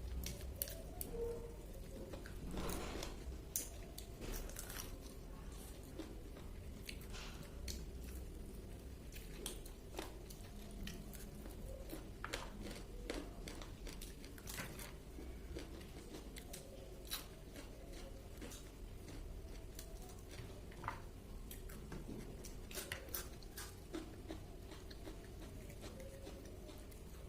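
A person biting and chewing crispy fried chicken close to the microphone, with irregular crunches throughout.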